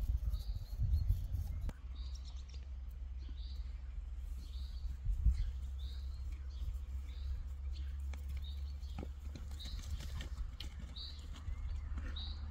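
A small bird calling over and over, a short high chirp repeated about every second, over a steady low rumble, with a few soft knocks here and there.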